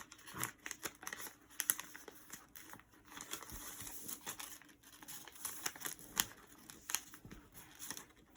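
A sheet of paper being folded and creased by hand: irregular crinkling and rustling, with sharp crackles as the folds are pressed.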